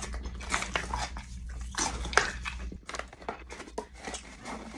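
Close-miked chewing of crunchy nuts: a string of irregular crisp crunches and mouth sounds.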